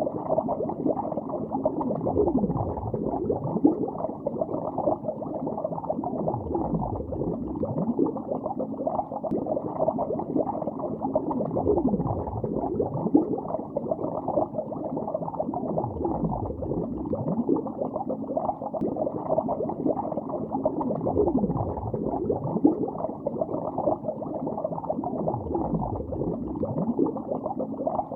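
Bubbles rising through lake water, heard underwater: a continuous dense bubbling of short blips, muffled with nothing high-pitched, with a deeper swooping sound about every five seconds.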